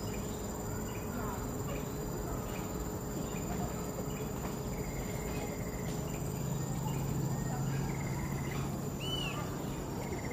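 Tropical forest insects, crickets or cicadas, keep up a steady high-pitched drone, with scattered bird chirps and one short arching bird call near the end. A low hum swells from about the middle and fades by the end.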